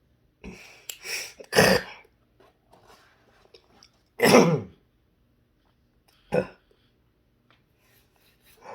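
A man coughing and clearing his throat: a quick pair of coughs about a second in, the loudest at about four seconds, and a short one at about six seconds.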